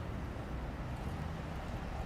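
Steady low rumble of wind buffeting the microphone, over faint outdoor background noise.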